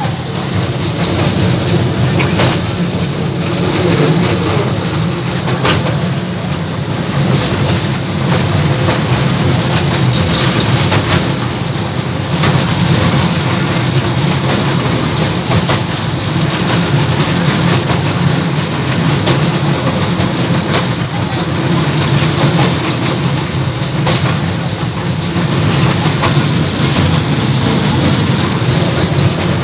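A small park ride train running steadily, heard from inside its open-sided passenger carriage: a constant low running drone with a few faint knocks and rattles.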